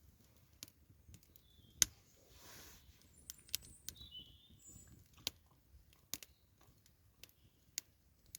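Wood fire crackling with irregular sharp pops, the loudest a little under two seconds in. A few brief, high bird chirps come in the middle.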